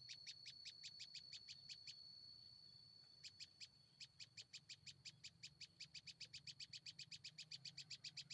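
Faint, rapid train of short, high chirps from a small bird, evenly spaced at several a second, breaking off for about a second around two seconds in and then resuming a little faster.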